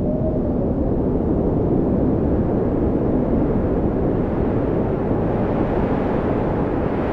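Wind blowing steadily, a low rushing with a faint whistling tone that rises and falls near the start; the hiss grows brighter toward the end.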